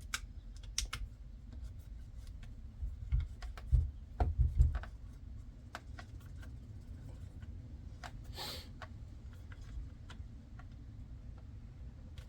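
Small clicks, ticks and scrapes of a screwdriver and steering-wheel parts being handled while the last screw on the back of the wheel is fitted. A few dull thumps come about three to five seconds in, and a short scrape comes past the middle.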